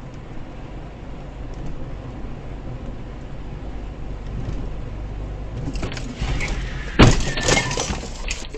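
Car driving, with steady low road and engine noise, then a loud crash about seven seconds in: a vehicle collision with a jumble of crunching and clattering for about a second.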